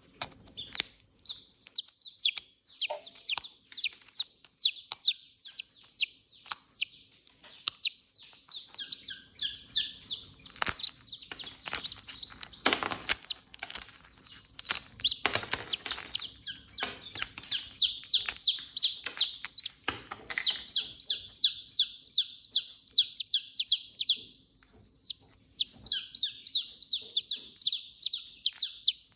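A chick stuck in its egg while hatching, peeping in long runs of short, high, insistent peeps, two to three a second. Clicks and knocks come in the middle.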